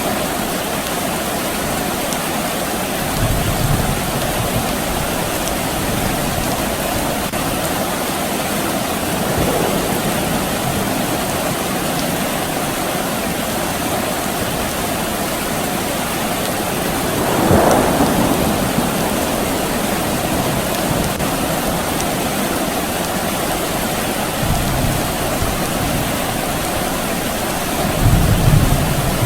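Steady soft rain falling, with low rumbles of distant thunder a few seconds in and again near the end, and a brief louder swell about halfway through.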